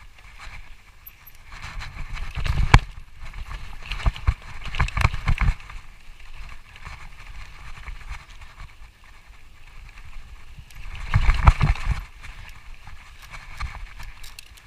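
Mountain bike clattering over a rough, wet dirt trail: rattles and knocks from the frame and chain, with bursts of tyre and wind rush about two seconds in, around five seconds and about eleven seconds in.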